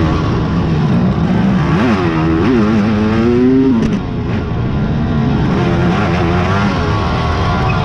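Racing quad (ATV) engines revving up and down under throttle, the pitch climbing hard between about two and four seconds in, then cutting back sharply before picking up again.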